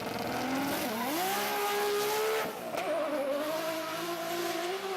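Nissan Skyline GT-R R34 engine held at high revs with its tyres squealing under wheelspin, burning rubber. The revs climb about a second in, hold, drop briefly halfway through, then waver.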